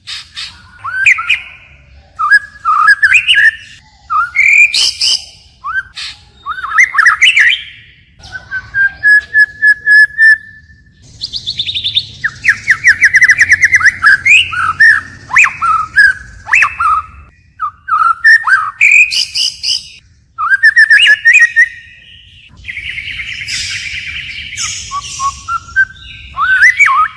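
White-rumped shama singing loud, varied whistled phrases, changing its phrases continually. There is a held steady whistle about a third of the way in, then rapid trills, and a harsh, buzzy stretch near the end.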